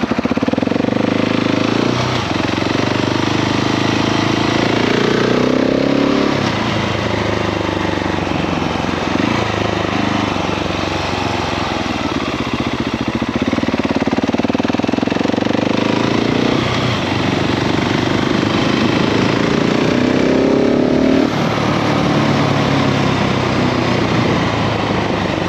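KTM 690 SMC R supermoto's single-cylinder engine, A2-restricted, pulling hard under acceleration: its note climbs and drops back at each upshift, several times over.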